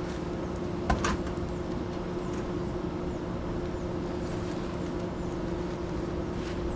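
A steady low hum, with a single sharp knock about a second in.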